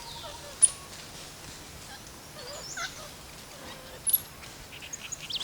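Forest sounds of wild animals: scattered short, high chirps and a gliding call, with a quick pulsing trill near the end, over a faint steady hiss.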